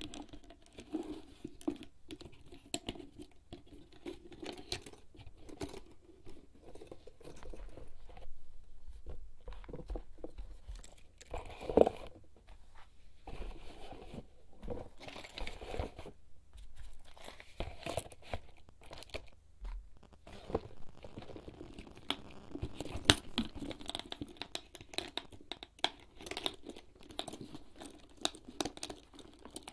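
Fingertips tapping and scratching on a HERZ leather bag: a busy run of soft taps and scrapes on the leather, with a sharper knock about twelve seconds in and another about twenty-three seconds in.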